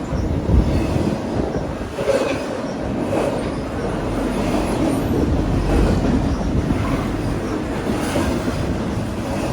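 Norfolk Southern intermodal freight train passing close by: a steady rumble of the cars rolling over the rails, with clickety-clack from the rail joints.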